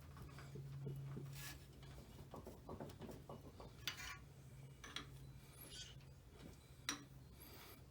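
Light metallic clinks and scrapes of a wrench being levered against the stuck shift selector shaft of a 1994 Yamaha Moto-4 350 engine, with a few sharper taps spread through the middle and near the end.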